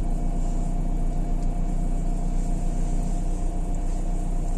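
Steady engine and road noise inside the cabin of a Renault Kangoo while driving, an even low rumble with no sudden events.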